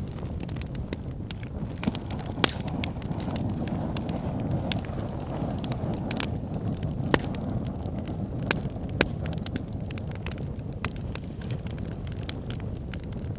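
Bonfire burning: a steady low rumble of flames with frequent sharp crackles and pops. A few louder pops stand out about two and a half, seven, eight and a half and nine seconds in.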